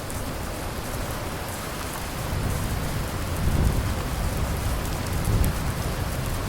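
Steady rain falling, a dense even hiss, with low rumbles of distant thunder swelling twice, about three and a half seconds in and again near the end.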